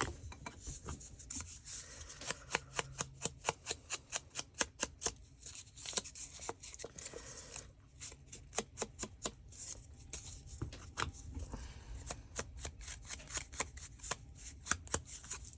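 Ink pad dabbed and rubbed along paper edges, a quick run of light papery taps several a second with a few short pauses.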